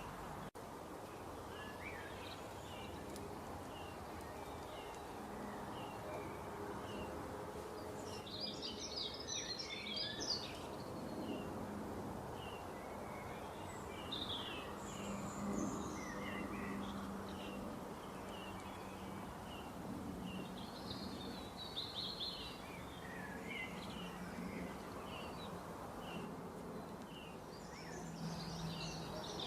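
Birds chirping and singing, several short calls a second, over a steady background hiss, with a dense flurry of calls about eight seconds in.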